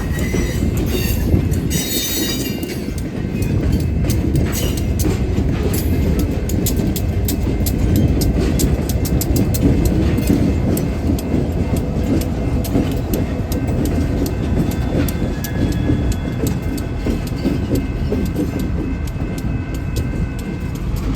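Railroad cars rolling past with a steady rumble and a rapid clicking of wheels over the rail joints. A brief high wheel squeal comes in the first couple of seconds, and a faint high whine rises in the second half.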